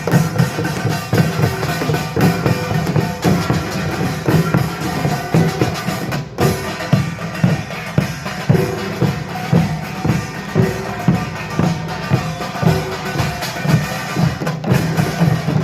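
Korean pungmul percussion ensemble playing together: drums beating a steady, dense rhythm, with metallic ringing above.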